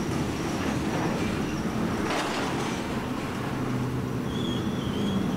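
Freight cars rolling past, a steady rumble of steel wheels on rail. A thin, high-pitched wheel squeal comes in a little after four seconds.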